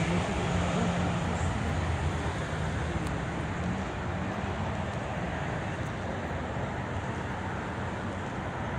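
Steady outdoor background noise, the even hum of distant city traffic, with no distinct event standing out.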